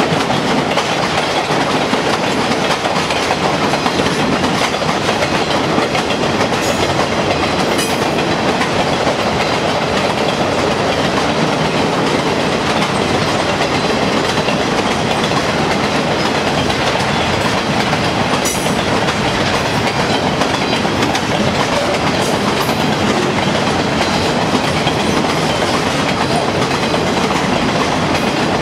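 A long circus train's coaches and loaded flatcars rolling steadily past over a railway girder bridge, a continuous loud noise of wheels on rail.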